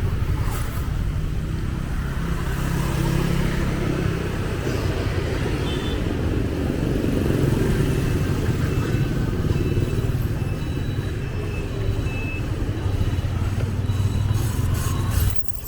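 Street traffic: motor vehicles running with a steady low rumble, and faint voices in the background. The sound drops away briefly near the end.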